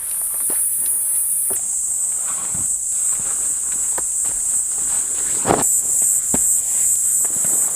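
A loud, steady, high-pitched insect chorus, such as crickets or cicadas, changing in strength a couple of times. Scattered short clicks and knocks sound over it, with one louder knock about five and a half seconds in.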